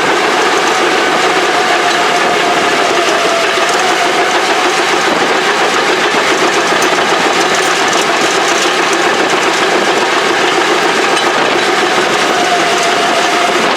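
Engine of an old Caterpillar heavy machine running steadily, with a whine that wavers slightly in pitch.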